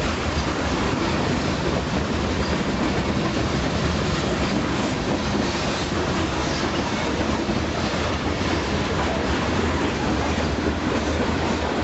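Freight train cars rolling past at close range: a steady noise of steel wheels on the rails with an irregular clatter, unbroken throughout.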